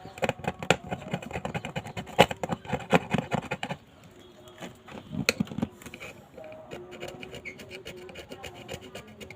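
Quick scratching and scraping of a tool working old adhesive off a phone's frame, dense for the first four seconds or so, then fainter and sparser, over a faint steady hum.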